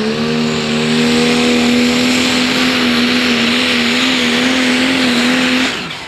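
Pro Stock pulling tractor's turbocharged diesel engine running flat out under load, a loud steady drone with a hissing top, that drops away abruptly near the end as the pull stops. The commentator believes the turbocharger's compressor wheel flew out.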